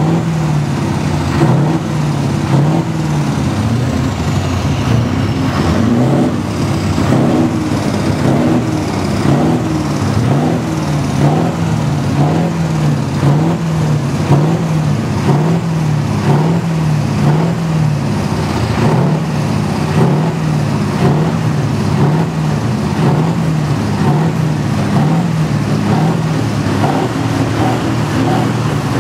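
Scania truck engines being revved over and over, the pitch rising and falling about once a second in a continuous loud racket.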